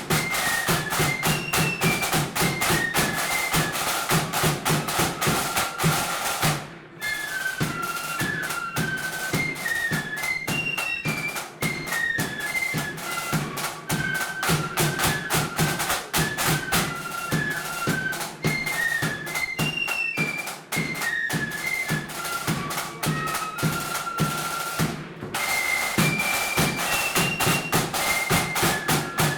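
Marching flute band playing a tune: flutes carrying a high melody over rapid side drumming and a steady bass drum beat, with two brief breaks.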